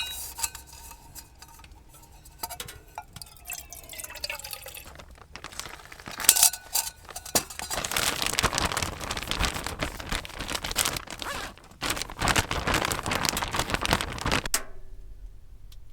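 Water being poured into a bowl of bannock mix, with scattered clinks and drips that give way to a longer, louder pour that stops suddenly near the end.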